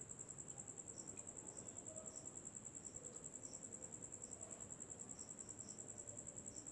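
Faint, steady cricket trill: a high-pitched tone pulsing rapidly and evenly, with a few softer chirps just below it.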